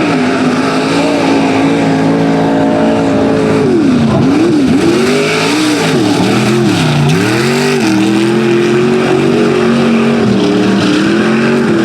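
Big-block V8 engine of a Ford Ranger mud truck running hard at high revs. The revs hold steady at first, dip and surge several times in the middle, then hold high again and fall off near the end.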